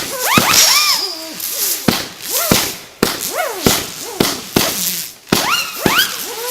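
Consumer fireworks firing shot after shot: sharp bangs about one to two a second, many followed by a short whistle that rises and then falls in pitch.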